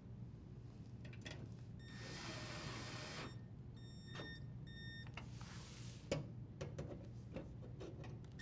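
Cordless drill driver running in short trigger pulses, driving in the dishwasher toe-kick screws: a run of about a second about 2 s in, a string of brief whirs around the middle, and another short run, with a few handling clicks.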